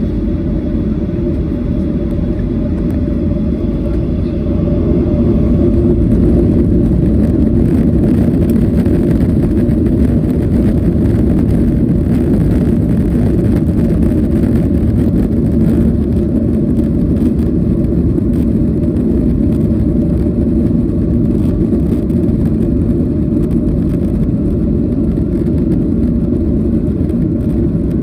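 Cabin noise inside a Boeing 737-800 with its CFM56-7B engines: a loud, steady engine and airflow rumble with a hum above it, growing louder about five seconds in and then holding.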